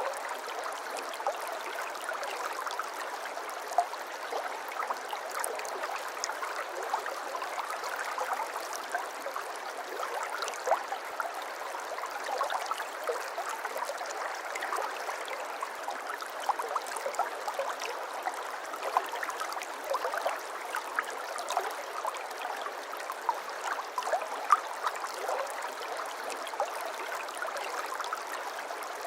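Shallow stream of water babbling and trickling steadily, full of small splashes and drips, with no low rumble.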